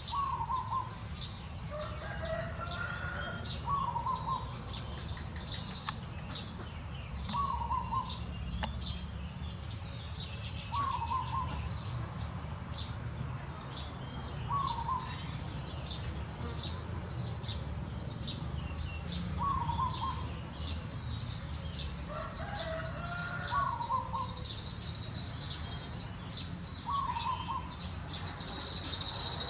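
Baby birds cheeping in rapid high-pitched chirps, with a lower call repeating about every two to three seconds. About three quarters of the way in, the cheeping turns into a denser, louder chatter.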